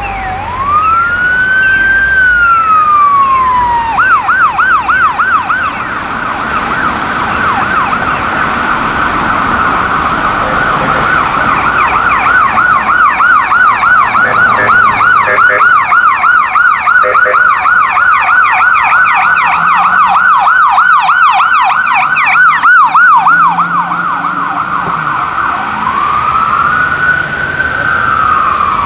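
Emergency vehicle electronic sirens on a lights-and-sirens response. A slow wail rises and falls, then switches about four seconds in to a fast yelp. From about twelve seconds a second, higher yelp overlaps it for some ten seconds, and a slow wail comes back near the end.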